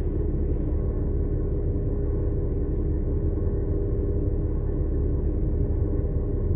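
Cummins-Westport ISL-G natural-gas engine of a New Flyer XN60 articulated bus running steadily: a constant low rumble with a held engine tone, no revving or change in pitch.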